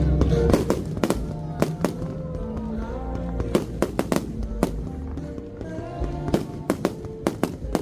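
Fireworks bursting overhead, a rapid string of sharp bangs and crackles, over music playing through the show's loudspeakers.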